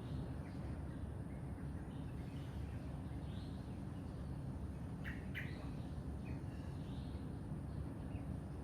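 Wild birds chirping and calling in short, scattered notes over a steady low background rumble, with two sharp, high chirps close together about five seconds in.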